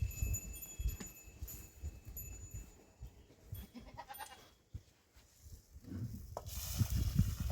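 A goat bleats briefly about four seconds in, over uneven low thumps and rustling, with a burst of hiss near the end.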